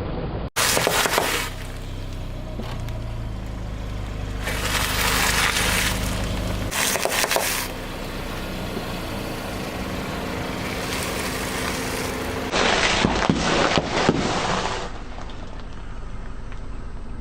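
A car's tyres rolling over and crushing crunchy objects, with several bursts of cracking and crunching over the low hum of the car's engine.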